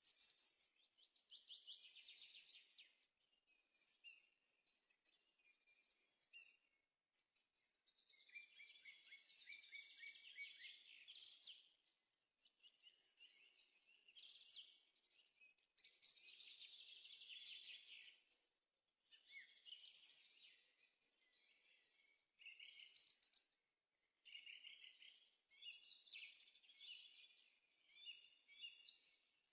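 Faint birdsong: a songbird singing in phrases of rapid high trills and chirps, each a few seconds long, with short pauses between them.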